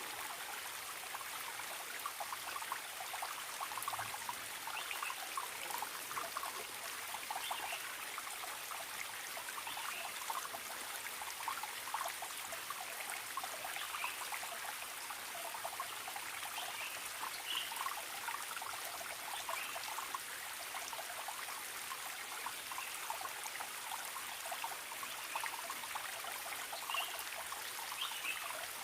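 A small stream trickling and babbling steadily, with many quick little splashes.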